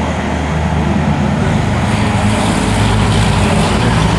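Steady drone of vehicle engines, several low pitches held together over a noisy wash, growing a little fuller about a third of the way in.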